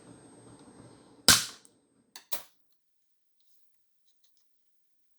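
Plastic snap-fit clip on an Xbox One S power supply case letting go with one loud sharp crack about a second in, followed by two smaller clicks.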